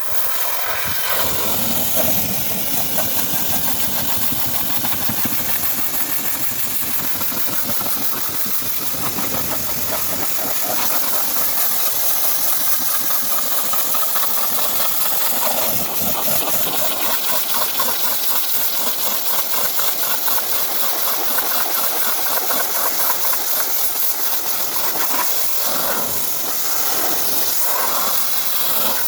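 Steady hissing spray from a pressure washer or steam cleaner, with its motor running underneath.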